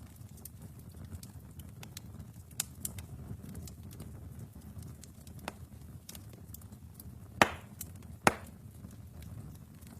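Wood fire burning in a fireplace: a low steady rumble of flames with scattered small crackles, and two loud pops of the burning logs near the end.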